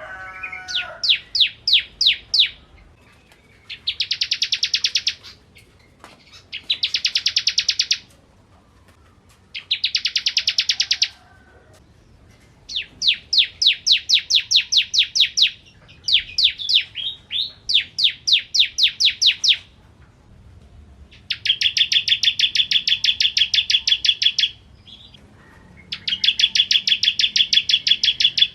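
Bar-winged prinia (ciblek kristal) singing: runs of rapid, evenly repeated high notes, each run lasting one to three seconds, repeated every few seconds with short pauses between.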